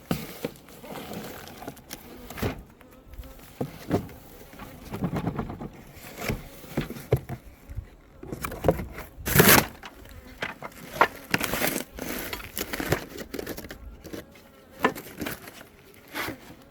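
Honeybees buzzing around an open hive, from a colony that is agitated, with irregular knocks and scrapes of the wooden hive boxes and frames being handled; the loudest is a broad scraping burst about nine seconds in.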